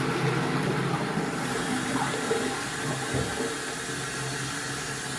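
Flushing toilet, water rushing into the bowl of a partly blocked toilet; the water rises in the bowl but still drains slowly. The rush eases a little about a second and a half in.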